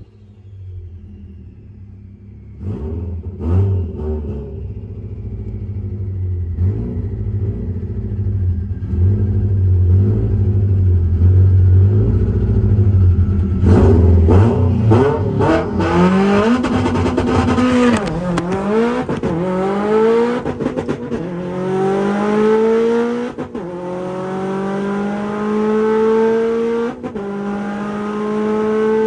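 Turbocharged Subaru STI flat-four engine on a drag-strip run: a low rumble, then about 14 seconds in a full-throttle launch, with the engine pitch climbing through the gears and dropping at each upshift. Once, early in the run, the pitch holds flat for over a second, bouncing off the 8,500 rpm rev limiter.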